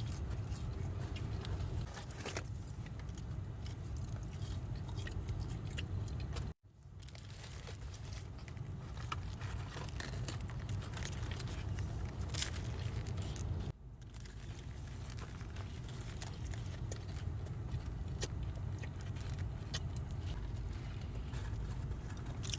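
A person chewing and biting into a cheeseburger, with small crunches and wrapper rustles, over a steady low rumble. The sound cuts out abruptly twice, about a third and two thirds of the way through.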